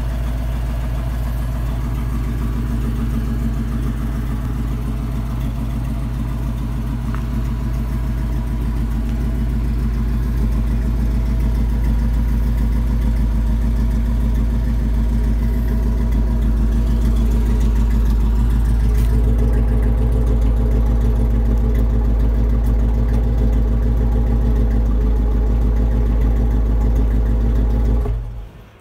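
6.0-litre LS V8 breathing through new Flowmaster mufflers, idling with a low, steady exhaust note that grows slightly louder after about ten seconds. The sound drops away abruptly near the end.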